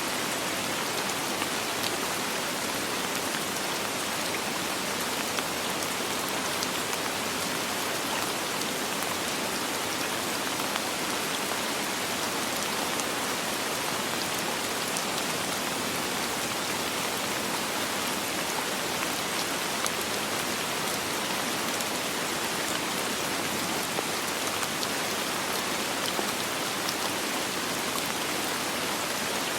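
Steady, even rain with no thunder: a constant hiss of rainfall with faint scattered drop ticks.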